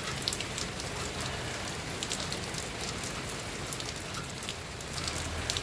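Steady rain falling on surfaces, with frequent sharp ticks of single drops.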